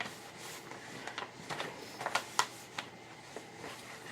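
Cardstock scraps being handled and moved about on a work table: scattered light paper rustles, slides and taps.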